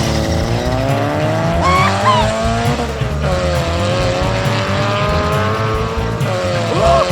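A car engine sound slowly falling and rising in pitch, with short tire squeals about two seconds in and again near the end.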